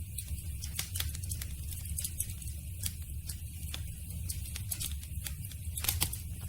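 Campfire burning with a steady low rumble and irregular sharp crackles and pops of the wood, one louder pop near the end.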